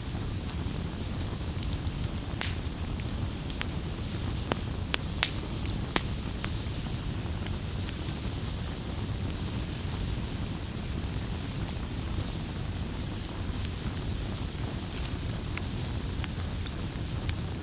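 Wood campfire crackling: scattered sharp pops and snaps over a steady low rumble, with the pops thicker in the first few seconds and sparser after.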